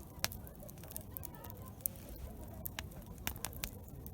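Wood campfire crackling, with sharp pops coming at irregular moments over a low background rumble.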